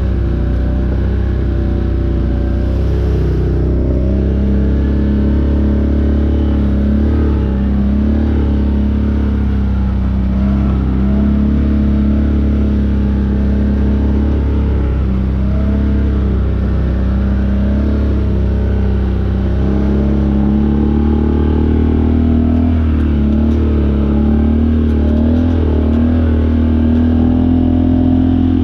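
Off-road vehicle engine running loud and steady, its pitch rising and falling gently as the throttle changes.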